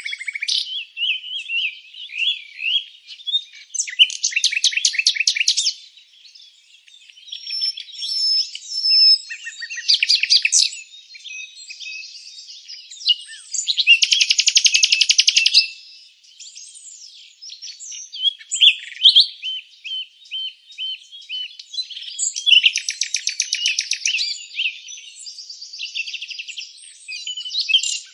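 Several songbirds chirping and singing, with rapid trills repeating every several seconds amid shorter chirps and whistles.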